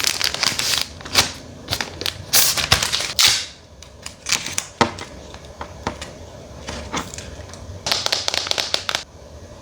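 Smartphone box and packaging handled during unboxing: runs of quick clicks and taps mixed with short bursts of rustling, in clusters that stop about nine seconds in.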